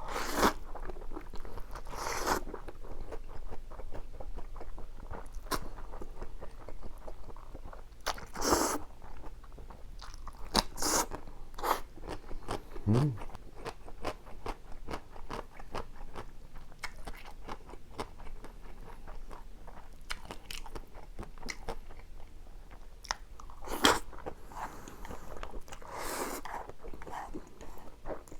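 Close-up eating sounds of spicy stir-fried cup ramen noodles: dense wet chewing clicks throughout. About seven short, noisy bursts of slurping break in at intervals.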